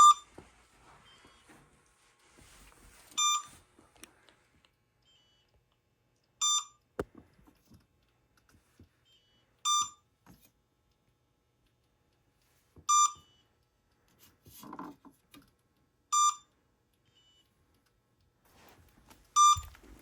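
A short electronic beep repeating at an even pace, about every three seconds, seven times, each beep the same pitch.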